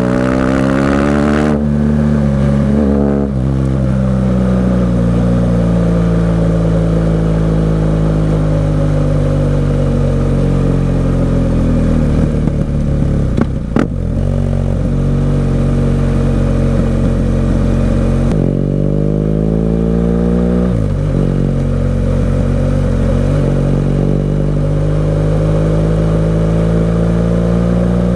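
BMW R 1200 GS Adventure's boxer-twin engine through an aftermarket SC-Project exhaust, heard while riding: the revs climb at the start, ease off slowly, then dip with a short sharp knock about halfway. About two-thirds through the revs climb steeply and drop back, then rise steadily again.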